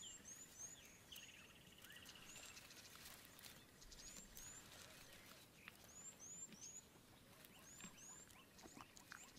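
Near silence with faint bush ambience: short high bird chirps repeating in twos and threes, a falling trill about a second in, and scattered faint clicks.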